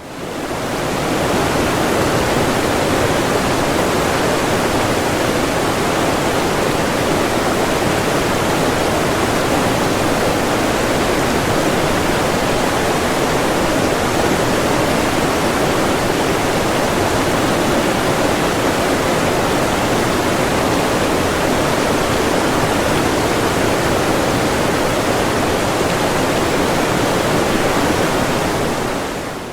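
Waterfall: a steady, unbroken rush of falling water that fades in over the first second and fades out at the very end.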